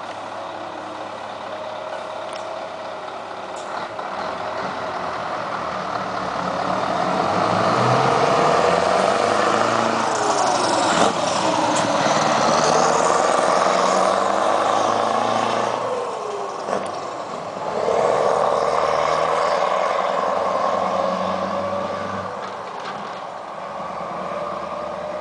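Scania 164's V8 diesel engine pulling a loaded semi-trailer, the engine note rising as it accelerates. Around seventeen seconds it dips briefly, with a sharp click or hiss, as the gear changes, then pulls up again. It dies down near the end.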